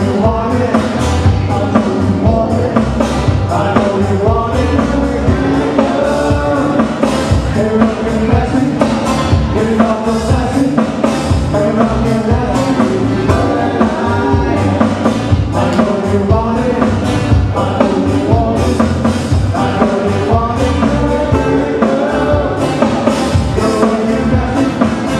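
Live band playing a song with a drum kit keeping a steady beat.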